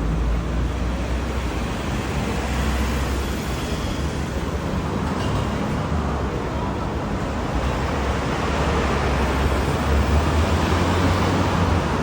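Steady rumble of road traffic and engines, with a low engine drone that grows louder about two-thirds of the way in.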